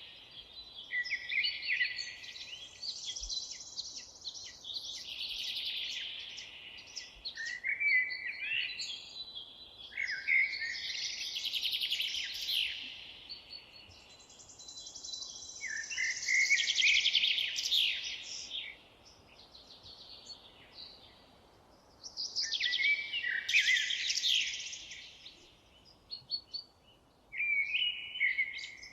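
A songbird singing in the forest: long, rapid phrases of trills and sliding whistles, repeated about six times with short pauses between, over faint steady background hiss.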